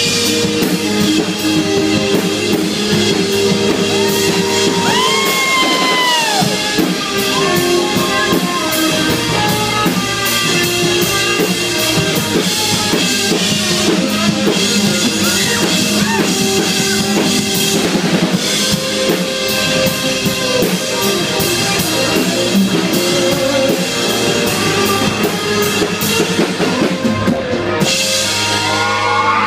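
Live rock band playing an instrumental passage: a full drum kit keeping the beat under electric guitars, with some bent, gliding guitar notes.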